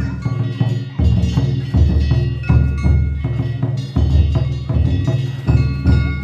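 Danjiri festival music: a large taiko drum beaten in a steady rhythm, about one deep stroke every three-quarters of a second, with hand-struck bronze gongs (kane) ringing and clanging over it.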